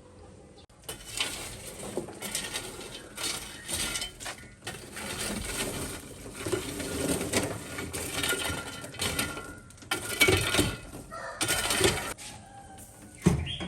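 Dishes and utensils clattering in irregular bursts of sharp knocks and clinks, with one sharp knock near the end.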